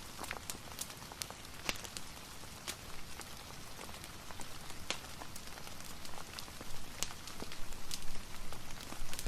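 Steady rain hiss mixed with a wood fire, with scattered sharp, irregular crackles and pops through it, growing a little louder near the end.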